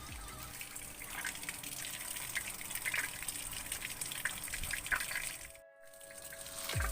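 Tap water running into a washing machine's tub, filling it to rinse the clothes. The sound drops out for a moment near the end.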